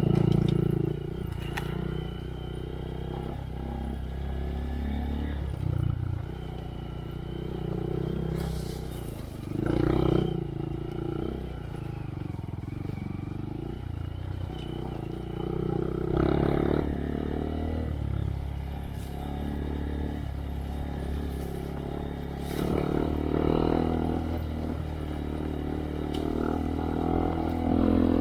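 2023 Honda Monkey's single-cylinder engine through a Yoshimura RS3 slip-on exhaust, running at low trail speed. The throttle opens in a handful of short surges a few seconds apart.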